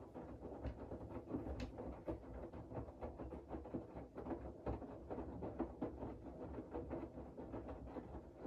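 Siemens iQ700 WG56B2090 front-loading washing machine in its main wash: the drum turning, with wet laundry and water sloshing and many small irregular knocks.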